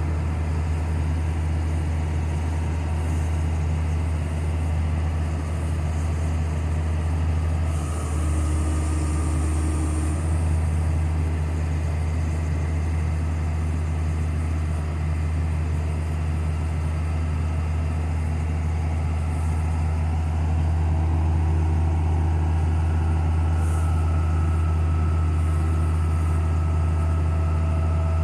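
Heavy diesel engine idling steadily, a constant low hum.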